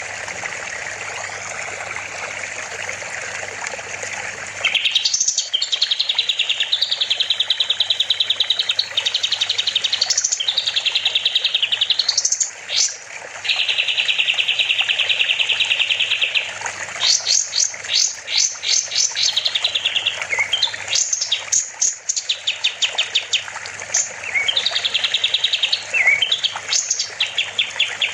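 Kapas tembak songbird singing: long, very rapid trills held at one high pitch, broken by quick rising whistled sweeps and stuttering repeated notes. For the first few seconds a steady rushing noise, like running water, sits under the song and then stops.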